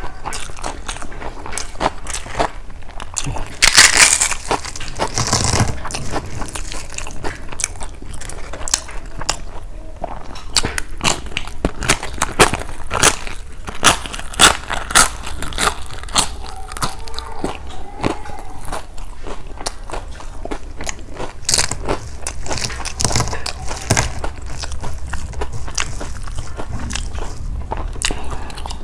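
Close-miked eating sounds: wet chewing and lip smacking of a mouthful of lemon rice and chicken curry eaten by hand. There are a few louder crunches, including a bite of crisp fried papad about halfway through.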